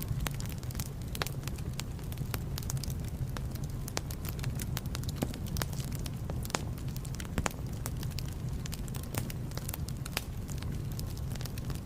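Fire in a fireplace burning with a steady low rumble, crackling and popping with frequent sharp snaps, several a second.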